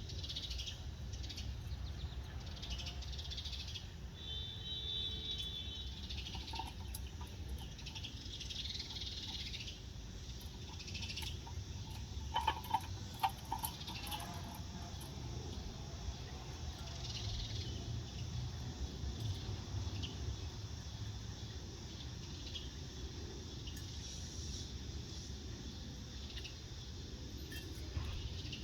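Scattered wild bird chirps and calls over a steady low outdoor rumble, with a few short, louder calls about twelve to fourteen seconds in.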